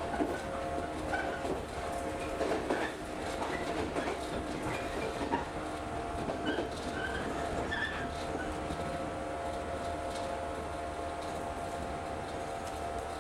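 Local electric train heard from inside the carriage as it runs along the track. Wheels click over rail joints against a steady hum, with short high squeaks in the first half, before it settles into an even running noise.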